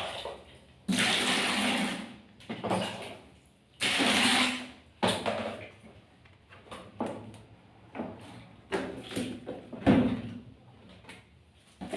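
Water splashing and pouring in bursts as a sugar glider is washed, with two longer bursts of about a second each and shorter splashes and knocks after.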